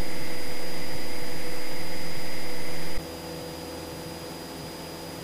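Cessna 172's engine and propeller droning steadily in the climb, heard in the cockpit through the headset intercom. About three seconds in, the whole sound drops abruptly to a much lower level and carries on steady.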